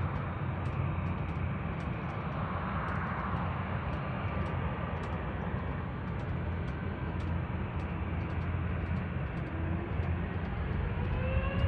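Airplane noise: a steady low rumble with a hiss over it. Near the end a rising whine begins and the sound grows louder.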